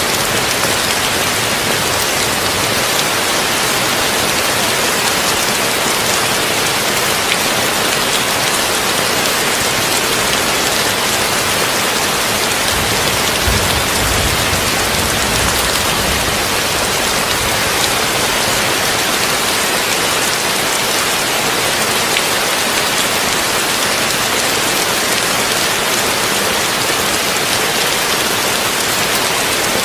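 Heavy rain falling on a tin roof: a steady, dense hiss, with a short low rumble about halfway through.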